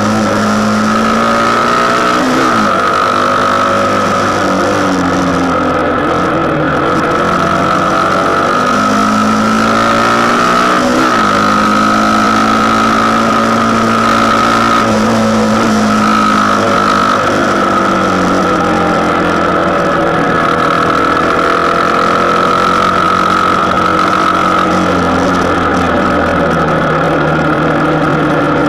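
Motorcycle engine running while riding, its pitch rising and falling several times with throttle and gear changes, with a steady high whine over it.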